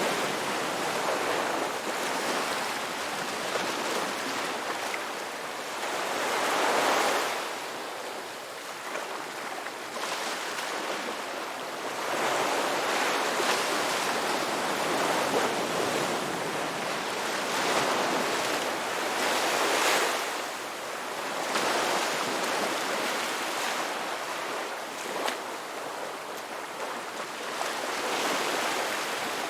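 Ocean surf washing onto a beach, a continuous rush of water that swells and eases as each wave breaks, every several seconds.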